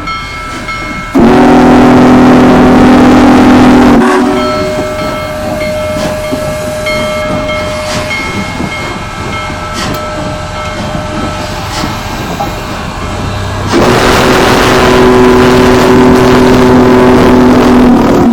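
Union Pacific Big Boy 4014's steam whistle blowing two long blasts, a deep chord with a hissing edge, first about three seconds long, then about four and a half seconds near the end. Between the blasts the train's running noise goes on more quietly.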